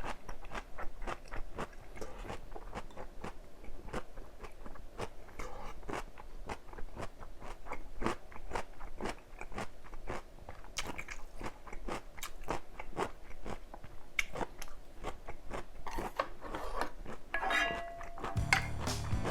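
Close-miked eating: chewing with many crisp, rapid crunches from biting into crunchy vegetables. Music begins near the end.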